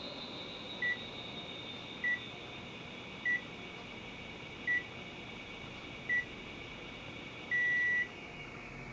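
National CS-405HA2 air conditioner indoor unit beeping: six short beeps about a second apart, then one longer beep near the end. Underneath is a high whine from the fan motor that falls slowly in pitch, the abnormal noise of a failing fan motor.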